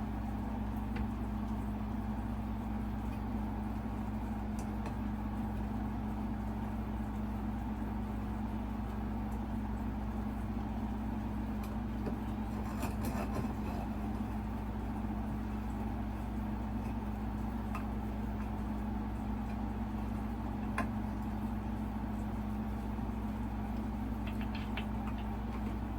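A steady low hum, with a few faint clicks and taps from a ceiling fan's metal mounting bracket being handled and screwed to the ceiling box.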